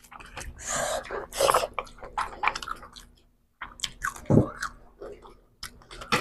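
Close-up chewing and mouth sounds of people eating mouthfuls of rice and fried hilsa fish by hand, in a run of short bursts with a brief pause a little after three seconds in.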